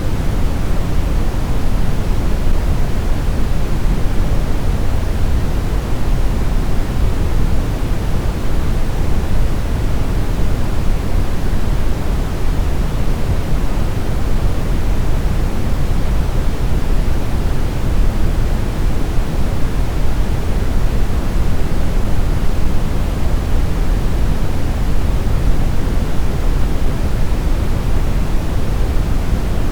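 Steady synthetic brown noise: a deep, even rumble of random noise, strongest in the bass and falling off toward the treble, with no change or events.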